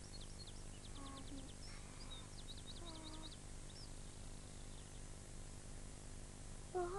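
Background birdsong: quick high chirps and trills, thinning out after the first few seconds, with two short faint pitched notes about one and three seconds in, over a steady low hum and hiss.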